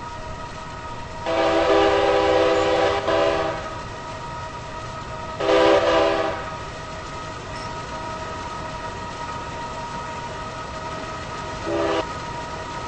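Diesel locomotive air horn sounding a chord of several tones: a long blast, a second long blast a few seconds later, then a short one near the end, the pattern of a grade-crossing signal. The passing train runs steadily underneath.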